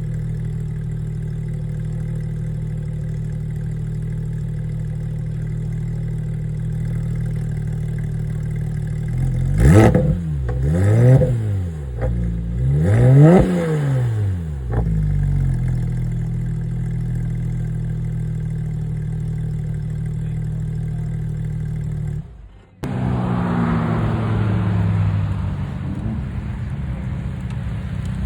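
Car engine idling, revved three times in quick succession with the pitch rising and falling each time, then settling back to idle. After a short break, another engine sound with falling pitch takes over.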